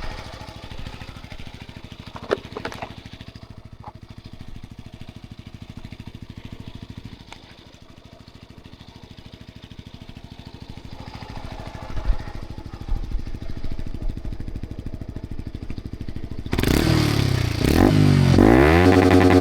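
Yamaha MT-125's single-cylinder 125 cc engine with an aftermarket GPR exhaust idling with a steady low pulse, with a few light clatters. About three seconds before the end, a much louder sound with sweeping, rising and falling pitch abruptly takes over.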